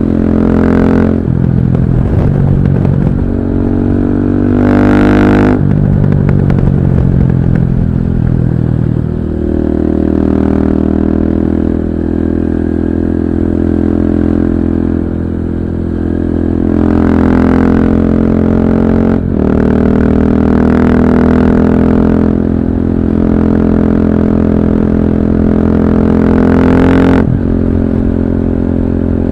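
KTM 640 LC4's single-cylinder four-stroke engine running under way, the pitch rising and dropping several times as it revs and changes gear. The sound is dull and muffled, picked up by a recorder inside a backpack, with no wind noise.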